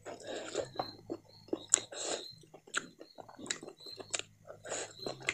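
Close-up chewing: a person biting and chewing a piece of meat, with irregular mouth clicks and smacks.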